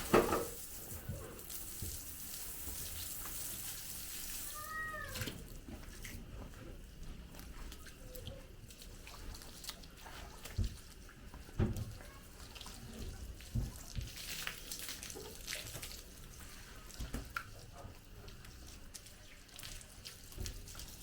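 Water running for the first few seconds, then one short arched mewing call about five seconds in, with scattered knocks and clicks.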